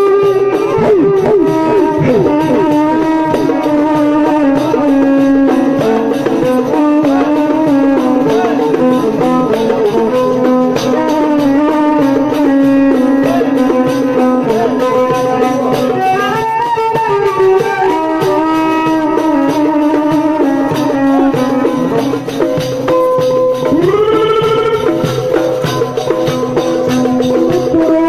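An instrumental interlude of traditional Egyptian Sufi praise-song music: several melodic instruments play over a steady beat of hand percussion, with a sliding rise in pitch near the end.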